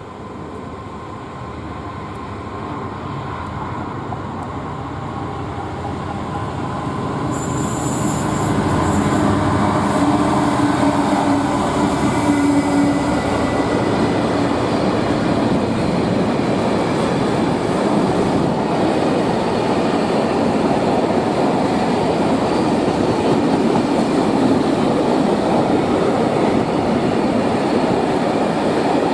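A train approaching and running past close by, getting louder over about eight seconds, with a humming tone early on and a short high hiss near the start of the loud part. After that comes a steady, loud rumble of wheels on the rails.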